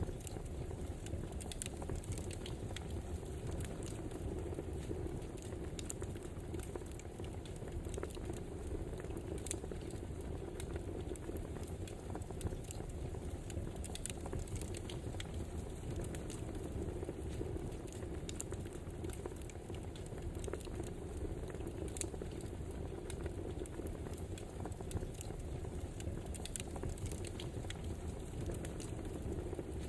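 Wood fire burning, a steady low rumble with frequent small crackles and pops of burning logs.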